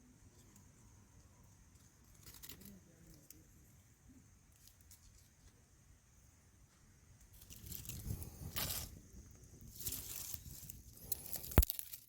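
Dry tinder and twigs being handled for a campfire: quiet at first, then bouts of rustling and crackling in the second half, with one sharp snap near the end.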